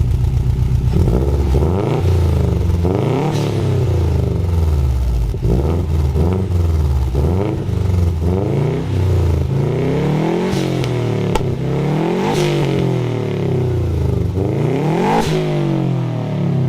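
Subaru Forester's flat-four boxer engine revved through a newly fitted Invidia cat-back exhaust. It idles for about a second, then is blipped up and let fall back several times, the pitch rising and dropping with each rev.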